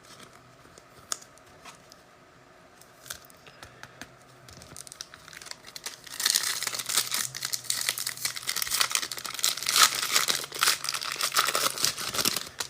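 A trading-card pack's wrapper being torn open and crinkled. A few light clicks come first, then dense crinkling for about the last six seconds.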